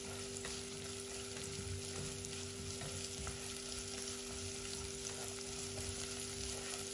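Chopped onion and garlic sizzling in oil in a nonstick pot, stirred with a silicone spatula. A steady low hum runs underneath.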